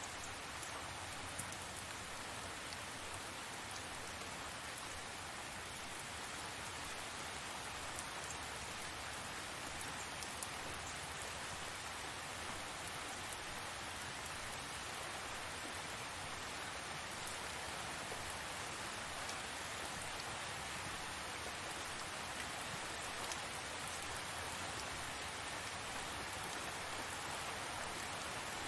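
Steady heavy rain falling, an even hiss with scattered drop ticks on surfaces.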